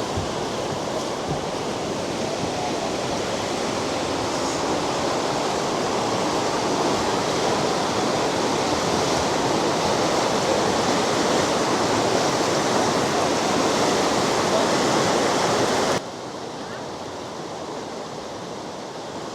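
Rushing river water under a suspension bridge: a steady rush that slowly grows louder, then drops suddenly to a quieter level about sixteen seconds in.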